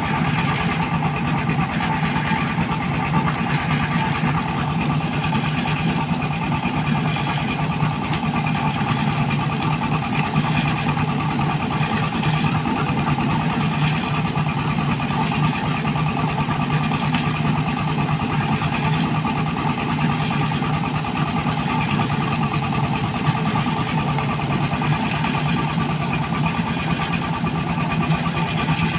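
Sugarcane juice crushing machine running steadily, its motor and rollers making an even mechanical drone that holds at the same pitch and level throughout.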